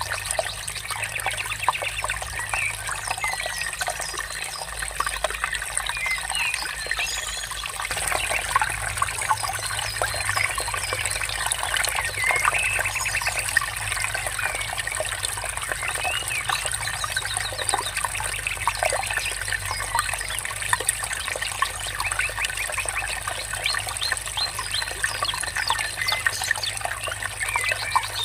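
Water trickling, with birds chirping over it, some in quick trills; the water grows a little louder about eight seconds in.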